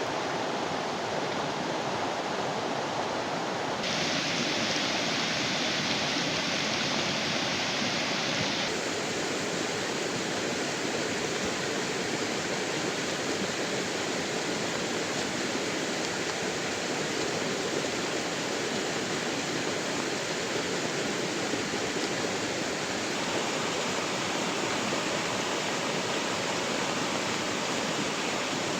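Steady rushing water noise, an even hiss with no separate knocks or calls. Its brightness shifts abruptly about 4 seconds and about 9 seconds in.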